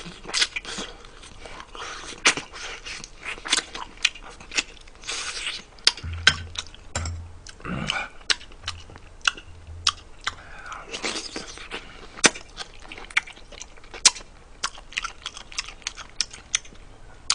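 Close-miked chewing of braised pork ribs, with many short, wet mouth smacks and clicks.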